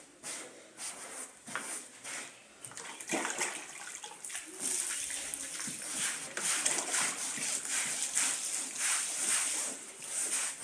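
Water splashing and sloshing on a carpet being washed by hand, getting louder and hissier about halfway through.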